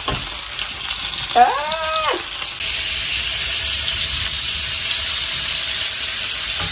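Pork chops sizzling as they fry in a pan, a steady hiss that gets louder about two and a half seconds in. A short, high, rising-then-falling vocal call sounds about a second and a half in.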